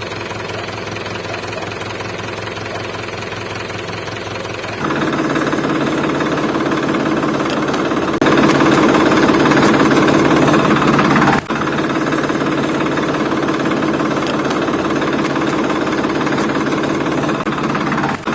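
Engine running with a heavy, rapid rattle. It gets louder about five seconds in and again around eight seconds, then drops back a little at about eleven seconds.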